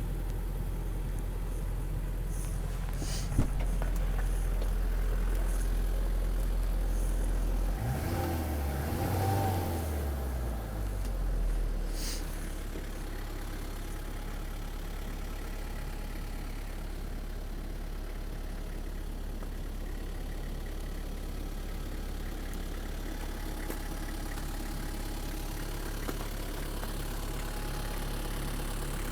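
Nissan TD27 2.7-litre four-cylinder turbo-diesel idling steadily. About eight seconds in, the engine speed rises and then settles back to idle by about twelve seconds. There is a single sharp knock a few seconds in.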